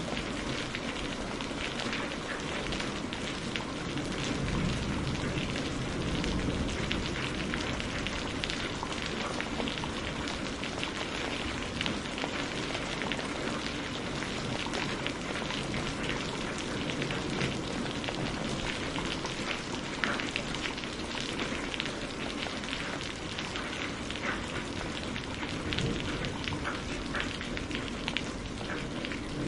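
Steady rain falling, with dense fine pattering of drops hitting a surface.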